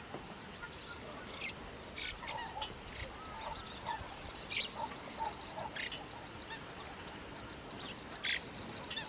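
Many waterbirds calling at once: short honk-like calls mixed with sharp high chirps, scattered irregularly over a steady outdoor hiss.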